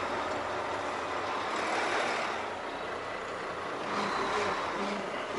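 Semi-truck tractor's diesel engine running steadily, heard from inside the cab while the rig is manoeuvred at low speed.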